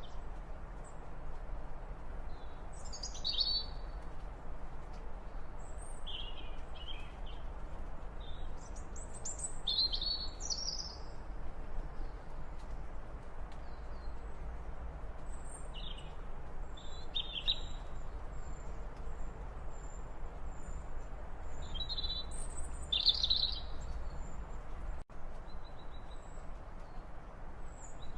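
Small birds chirping and calling in short scattered phrases. From about halfway, a thin, high note repeats steadily, all over a steady low outdoor rumble.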